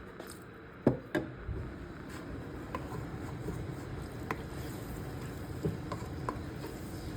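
Chicken cooking in oil and a little water in a karahi, a steady sizzle, with a utensil knocking against the pan: two sharp knocks about a second in, then a few lighter taps as it is stirred.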